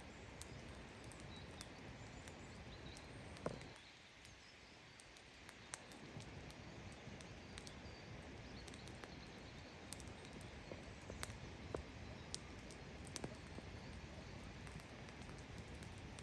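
Faint campfire crackling: a soft steady hiss of burning wood with scattered sharp pops and snaps. One louder pop comes about three and a half seconds in, after which the hiss drops away for a couple of seconds before returning.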